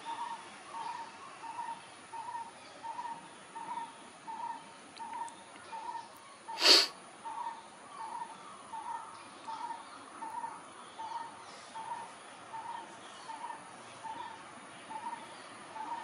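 A bird calls a short single note over and over, evenly, about one and a half times a second. One sharp, loud burst of sound cuts in once a little before halfway.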